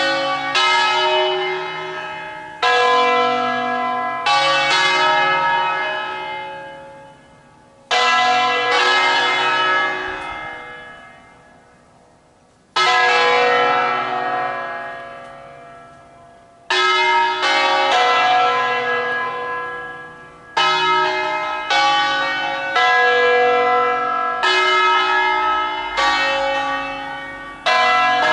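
Church bells from a 1953 Angelo Ottolina set tuned in B, struck to ring a traditional Bergamasque 'suonata d'ufficio'. Each stroke rings out and dies away slowly. The strokes come a few seconds apart at first, then come quicker and overlap from a little past halfway.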